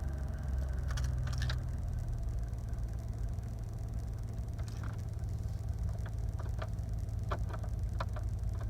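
Chevrolet Silverado pickup's engine idling steadily, with a few light ticks or clicks in the second half.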